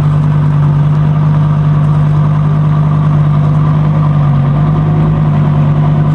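Car engine idling close by, a loud, steady low drone that holds one pitch, shifting slightly about four and a half seconds in.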